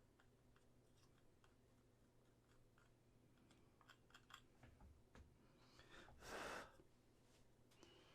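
Near silence: faint light clicks of small resin model parts being handled, with one short soft hiss about six seconds in.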